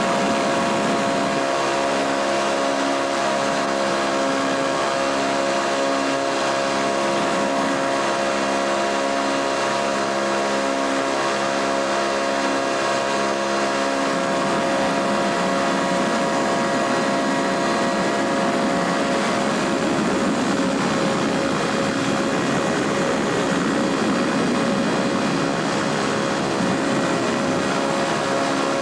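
Ultralight airplane's engine and propeller running steadily at constant power, a continuous drone with a low pulsing in its tone during the first half.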